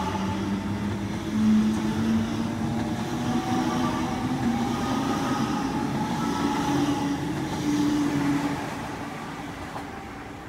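Double-deck electric suburban train pulling out of a station, its traction motors whining in slowly rising tones over the rumble of the wheels as it accelerates away. The sound fades in the last couple of seconds as the train clears the platform.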